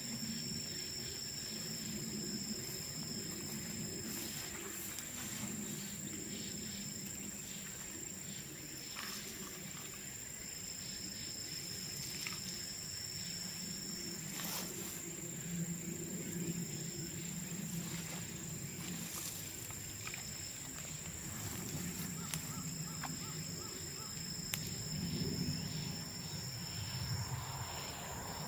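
Bamboo bonfire crackling with scattered sharp pops, over a steady high-pitched insect trill that is joined now and then by a second, intermittent trill.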